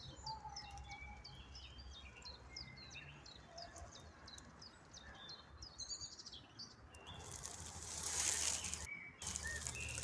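Small birds chirping faintly outdoors, a rapid series of short, high, downward-sliding chirps at about two a second. Near the end the chirping gives way to a swelling rush of noise that breaks off briefly and resumes.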